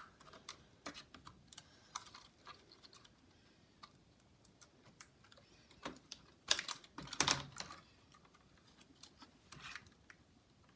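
Scattered small clicks and taps of hands working laptop ribbon cables and plastic parts into place, with a louder flurry of clicking and rustling about two-thirds of the way through.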